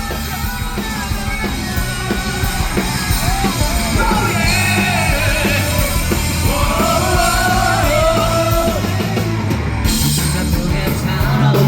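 Live rock band performing amplified: drum kit and guitars under a singer's held, wavering notes, with some yelling.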